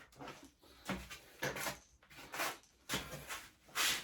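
Irregular scrapes and light metallic clicks of hand work on a small motorcycle engine: a bolt and tools being handled and fitted, about eight short strokes with the loudest near the end.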